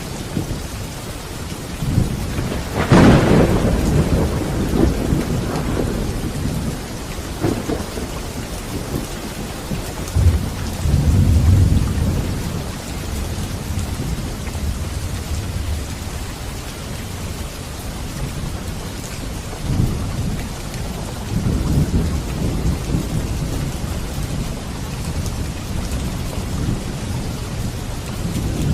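Steady heavy rain during a thunderstorm. A sharp thunderclap comes about three seconds in, and low rolling rumbles of thunder follow around the middle and again later.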